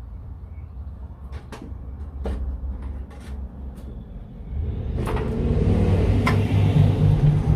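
Tools clicking and knocking on metal while work goes on under the car, over a steady low hum. About two-thirds of the way through, a louder hissing rumble sets in and grows.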